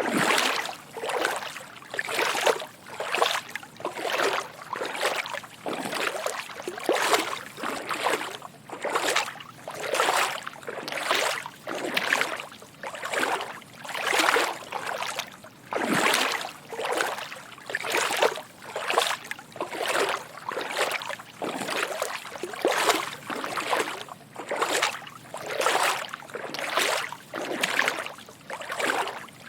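Footsteps wading through shallow water: a steady rhythm of soft sloshing splashes, about one to two steps a second.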